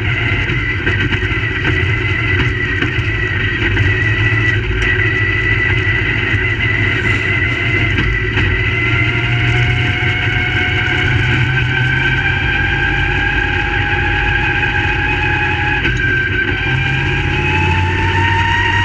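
Crate late model stock cars' V8 engines running at a dirt track, a steady loud engine drone whose pitch climbs slowly through the second half.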